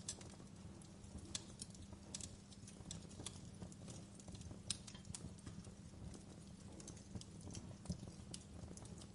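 Wood fire crackling, with irregular sharp pops and snaps over a soft low rumble.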